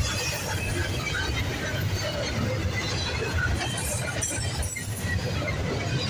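Double-stack intermodal container well cars rolling past: a steady low rumble of steel wheels on rail, with scattered short clinks and squeals.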